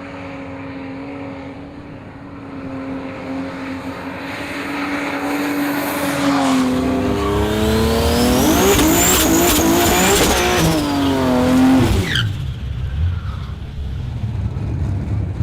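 Turbocharged Ford Barra 4.0-litre straight-six car running steadily, then accelerating hard with its engine note and a high turbo whistle climbing. It backs off sharply about three-quarters of the way in.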